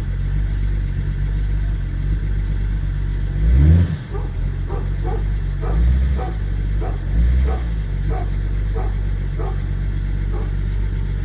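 BMW M57 straight-six turbodiesel in a Jeep Cherokee XJ idling just after a cold start at −6 °C, blipped three times: the first rev about three and a half seconds in is the loudest. Dogs bark repeatedly from about four seconds in.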